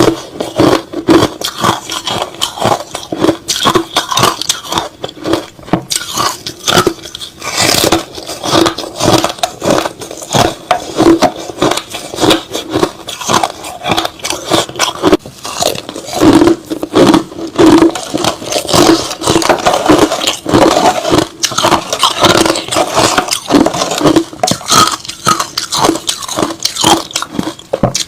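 Close-miked chewing of crushed ice and slush: a dense, continuous run of sharp crunches and crackles.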